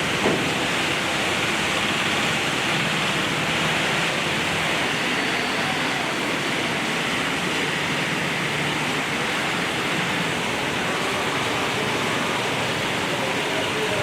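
Torrential rain pouring down, a dense steady hiss.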